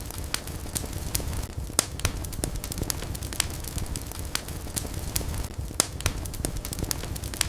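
Wood fire burning in a fireplace: a steady low rumble with irregular sharp crackles and pops several times a second, two louder pops about two seconds and six seconds in.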